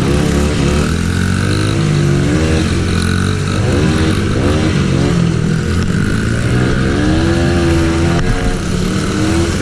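Small off-road engine being ridden on a trail, its revs rising and falling repeatedly with the throttle, then holding steadier near the end.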